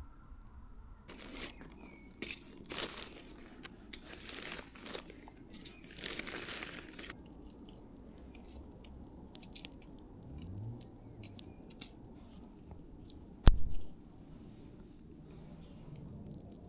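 Handling noises: several bursts of crinkling and tearing in the first seven seconds, then scattered light clicks and one sharp knock about three seconds before the end.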